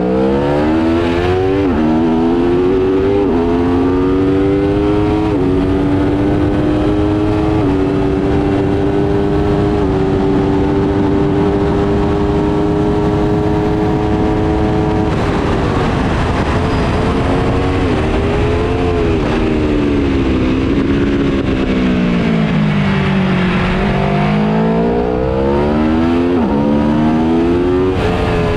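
Aprilia Tuono V4 Factory 1100's V4 engine at hard throttle, its pitch climbing in steps through several upshifts. About halfway it drops suddenly as the throttle closes for braking, falls to low revs, then climbs again through the gears near the end.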